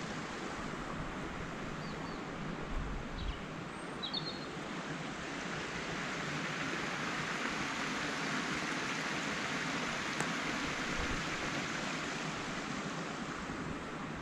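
Steady rushing of flowing water, as from a stream or waterfall, with a few faint high chirps about two to four seconds in.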